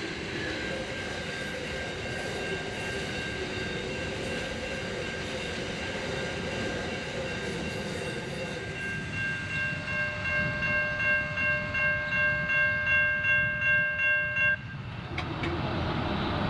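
A train passes with a steady rumble while the level crossing's Safetran Type 3 electronic bells ring in rapid pulses. The bells grow louder and then stop suddenly about a second and a half before the end, as the crossing deactivates.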